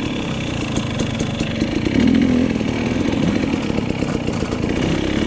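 Dirt bike engine running as the bike is ridden, revving up briefly about two seconds in.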